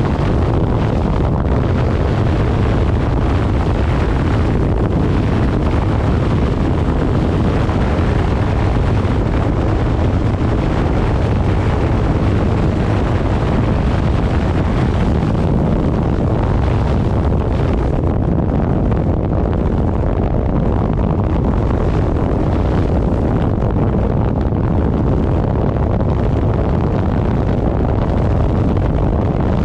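Loud, steady wind rushing over the microphone on a moving motorcycle, with the low drone of the ride underneath.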